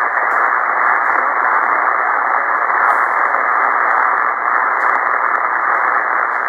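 Steady hiss of band noise from an HF ham radio receiver tuned to lower sideband on 40 metres, with no station transmitting. The hiss is muffled, cut off above the voice range by the receiver's sideband filter.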